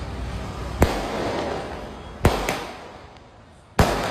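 Fireworks being fired in succession: four sharp bangs about a second and a half apart, the second and third close together, each trailing off in a fading crackle.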